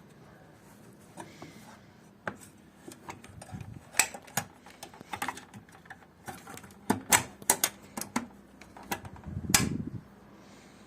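An irregular series of sharp clicks and light knocks, closer together in the middle, with a duller thump about nine and a half seconds in.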